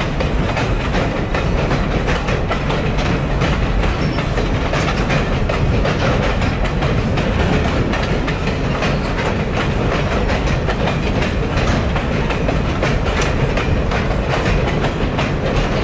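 Freight train cars rolling across a steel girder railway bridge: a steady, loud rumble with rapid, continuous clacking of wheels over the rails.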